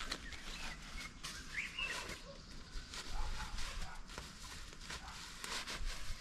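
Forest ambience: scattered clicks and rustles, with a short bird chirp about two seconds in.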